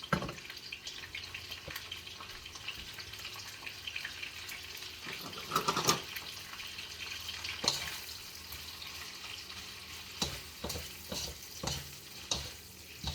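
Peppers, onion and ginger sizzling steadily in hot oil in a frying pan, with a few sharp knocks and scrapes of stirring scattered through.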